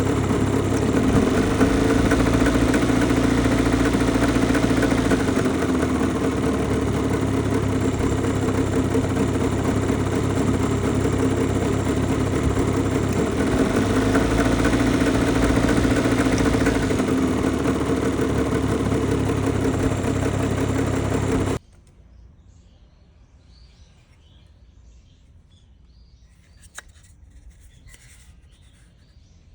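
Mitsubishi Minica 360 GSS's small two-stroke twin-cylinder engine running steadily at idle, with slight rises and dips in speed, then stopping abruptly about 21 seconds in, leaving only faint ticks.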